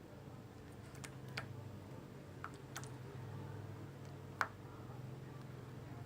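Freshly made clear-glue slime being handled and pressed on a surface, giving a few faint, sharp clicks and pops, the loudest about four and a half seconds in, over a low steady hum.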